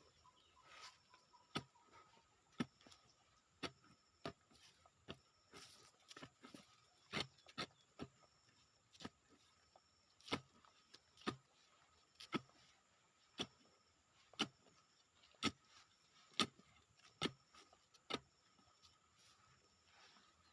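A series of short, sharp knocks at a fairly even pace of about one a second, over a faint steady high tone.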